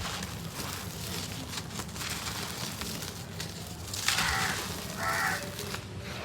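Dry, gritty cement crumbling and being sifted: a rough crackly hiss with scattered small clicks. Two short harsh calls sound in the background about four and five seconds in.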